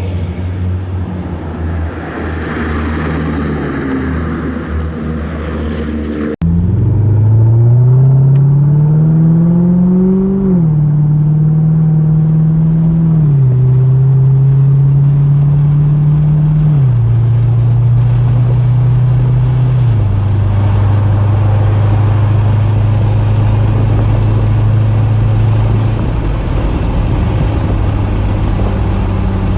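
2012 Chevrolet Corvette's 6.2-litre LS3 V8 running under way. About six seconds in the sound cuts to the engine pitch climbing as the car accelerates. The pitch then steps down four times as the car shifts up, and settles into a steady cruise.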